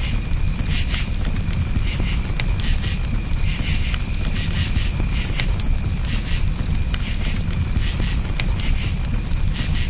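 Crickets chirping steadily in rapid pulsing trills over a crackling campfire, with scattered sharp pops and a low rumble of burning.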